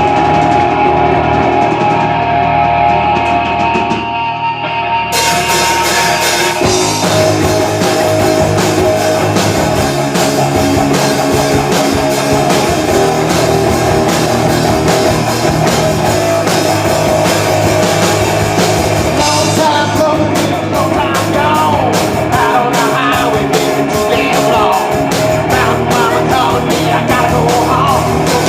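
Live rock band playing, with guitar, drums and singing. The opening seconds are thinner, then about five to six seconds in the cymbals, drums and bass come in and the full band plays on.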